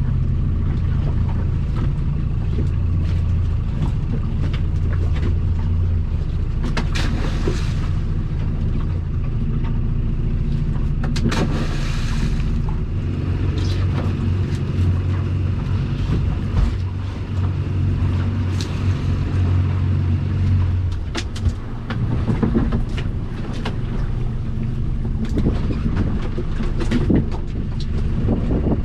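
Small boat's engine running steadily, with scattered knocks and two short bursts of hiss.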